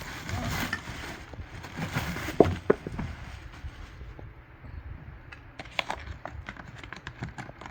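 Plastic cleaner attachments and packaging being handled: rustling, a couple of sharp knocks about two and a half seconds in, then scattered light clicks and ticks.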